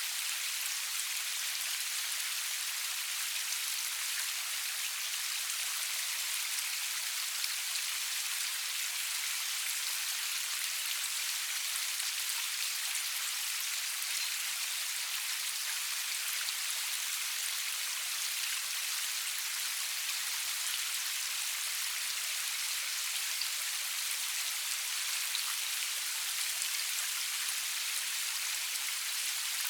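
Steady rain falling, an even hiss with many small drop patters and no thunder.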